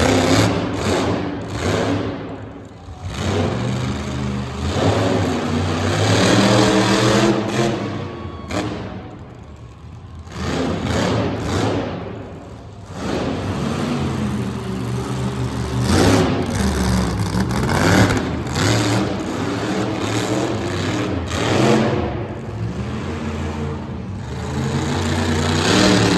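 Monster truck engine revving hard over and over, its pitch climbing and falling with the throttle, with a few short let-offs between bursts.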